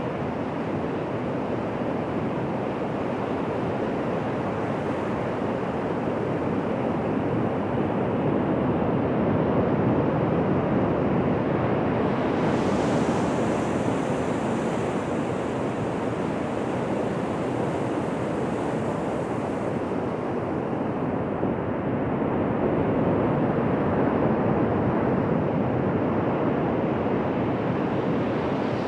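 Ocean surf washing onto a beach: a continuous rush of breaking waves that swells slowly, louder about a third of the way in and again near the end.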